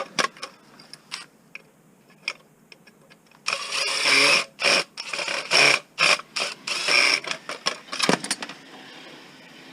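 A few sharp metal clicks and knocks, then a hand-held power drill run in a dozen short bursts of a fraction of a second to about a second each. It is drilling out the steel rivets on a cast-aluminium light-fixture housing.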